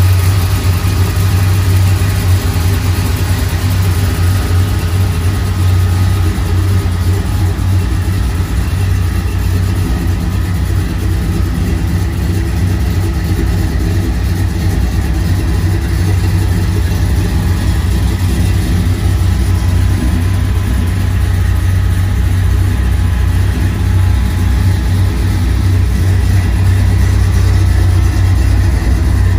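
Ford 460 big-block V8 in a 1953 Ford F100 street rod idling steadily with a low, even rumble.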